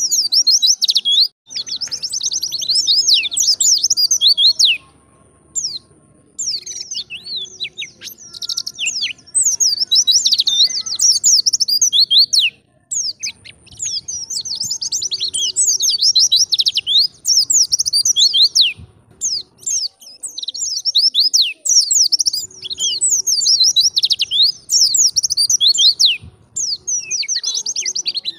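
White-eye (pleci) singing a fast, continuous chattering song of rapid high sweeping chirps, breaking off briefly about five seconds in and again about twelve seconds in.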